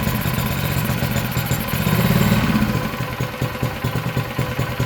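Freshly rebuilt mini bike's small single-cylinder engine running just after starting, then dropping to a slower idle about halfway through. Its idle is set slightly too low.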